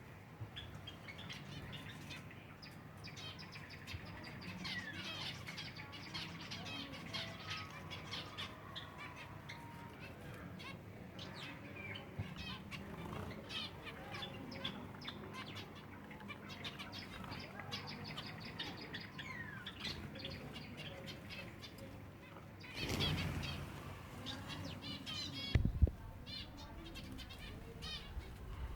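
A flock of silver Java sparrows twittering with many short, overlapping chirps. A brief flurry of wingbeats comes about 23 seconds in, and a sharp knock follows a few seconds later.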